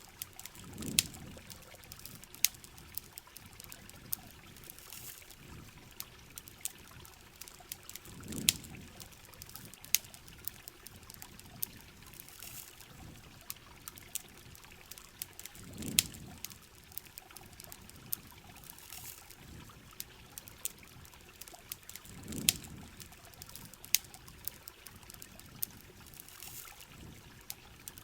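Layered ambience of steady rain and trickling water with frequent sharp campfire crackles and pops. A low whoosh swells and fades about every seven seconds.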